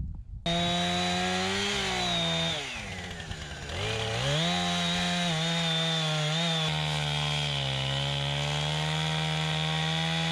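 Two-stroke chainsaw running at high revs, cutting into a standing dead tree to fell it. The revs sag and climb back about three seconds in, then hold steady until they drop near the end.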